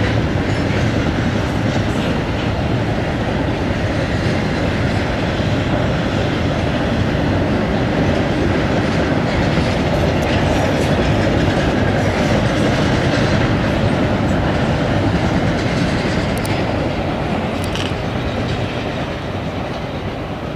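Double-stack intermodal freight train's container well cars rolling past, a steady rumble and clatter of steel wheels on rail with a few faint clicks, easing off slightly near the end.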